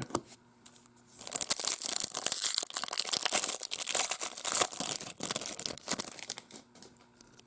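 Wrapper of a Topps baseball card pack being torn open and crinkled, a crackling rustle that lasts several seconds and fades out near the end.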